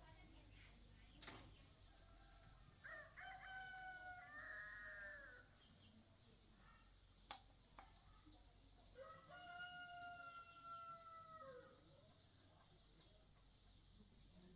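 A rooster crowing faintly, twice, each crow lasting about two and a half seconds and dropping in pitch at the end.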